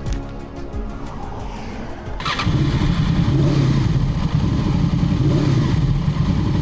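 Honda VFR800's V4 engine being started: a couple of seconds of quick, even cranking, then it catches about two seconds in and settles into a steady run.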